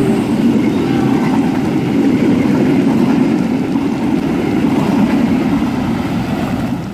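Passenger train coaches passing at speed close by: a steady, loud rumble of wheels on the rails.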